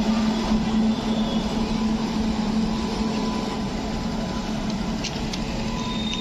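A train's steady low hum and rumble. A few sharp clicks come about five seconds in, and near the end a high, steady metallic wheel squeal begins.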